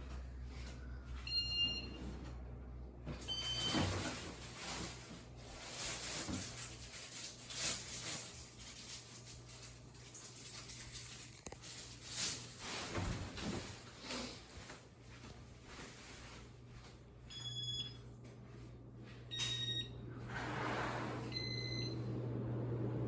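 The IntelliTouch beeper of a Casablanca Ventura II ceiling fan gives short electronic beeps as the fan steps through its demo mode: three spaced beeps in the first few seconds and three more near the end. A steady low hum runs underneath.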